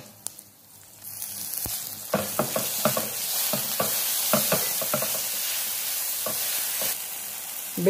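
Green chili paste and ginger-garlic paste sizzling in a little hot oil with sesame seeds and spices in a pan. The sizzle sets in about a second in, and a spoon stirs and scrapes the pan in repeated short strokes.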